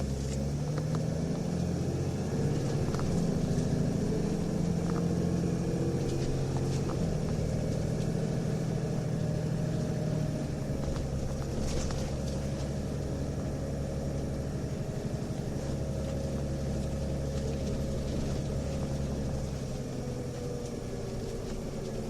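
Nissan Diesel UA city bus driving, heard from inside the cabin, with its diesel engine and ZF four-speed automatic pulling steadily. The note eases slightly about halfway. The engine sound is off from a normal UA272, and the recordist counts this bus as an odd-sounding unit, of the kind that often shows torque-converter slip.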